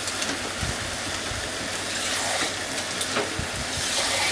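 Bean sprouts and minced chicken sizzling in a hot frying pan as they are stir-fried, turned over with cooking chopsticks. A few light clicks of the chopsticks against the pan, and the sizzle grows a little louder near the end.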